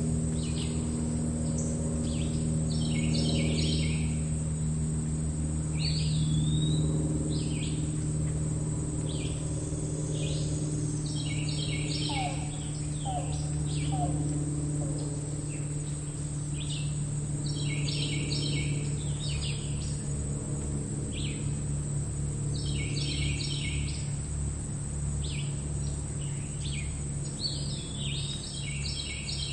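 Meadow ambience: a bird sings short bursts of rapid high notes every few seconds over the steady high trill of crickets in the grass. A low steady hum runs underneath.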